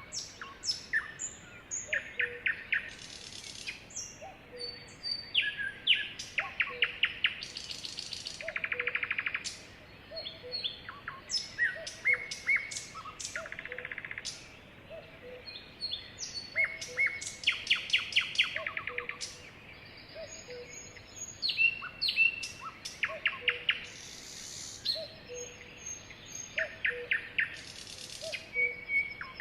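Sparrows chirping, with quick runs of rapid trilled notes and short chirps throughout. A soft low note repeats about once a second underneath.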